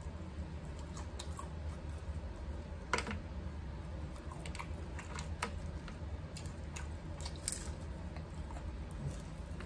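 Mouth sounds of someone eating crispy fried fish by hand: chewing, lip smacks and scattered small crunches, the loudest about three seconds in, over a steady low hum.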